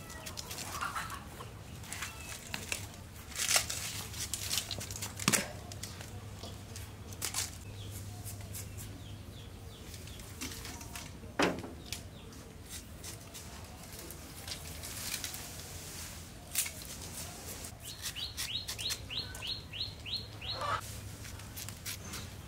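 Scattered sharp knocks and taps, and about three quarters of the way through, a bird giving a quick run of about nine falling chirps, three or four a second.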